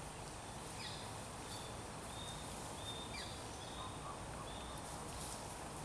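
Open-air background noise with a bird calling in short high whistled notes, several of them falling in pitch, repeated about every half second to a second.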